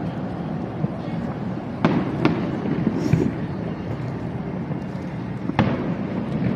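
Fireworks display: a dense, continuous low crackle of shells bursting, with two sharp bangs close together about two seconds in and another near the end.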